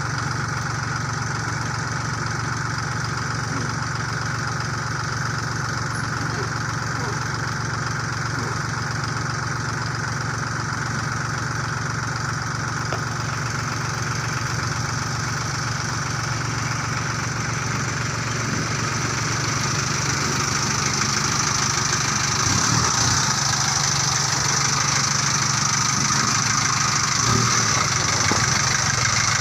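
Kubota L3608 tractor's diesel engine running steadily, growing somewhat louder about two-thirds of the way through.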